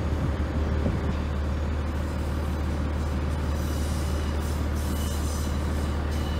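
Approaching Class 153 diesel railcars: a steady low engine rumble, joined from about halfway through by a thin high squeal of train wheels.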